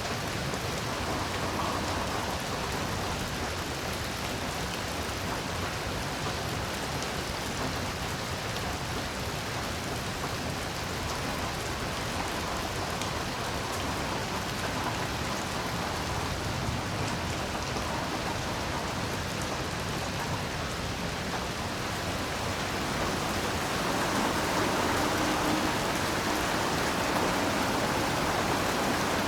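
Heavy rain falling steadily, a dense even hiss of drops, growing a little louder about three quarters of the way through.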